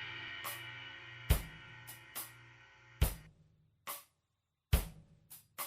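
Instrumental rock music: a held chord fades out, then sparse, unevenly spaced solo drum-kit strikes on bass drum, snare and cymbals, with gaps of near-silence between the hits.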